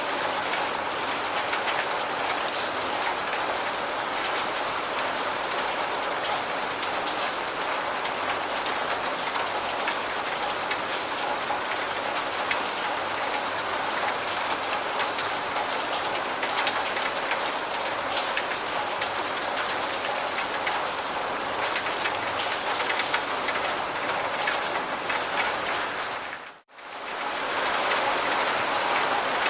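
Steady heavy rain: a dense, even patter of drops. It briefly fades out and back in about three-quarters of the way through.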